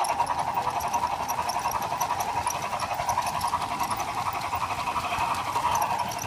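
Dallee Electronics Highline Steam sound card in a LEGO model locomotive playing steam-engine chuffing through its small speaker, a quick even beat of several chuffs a second.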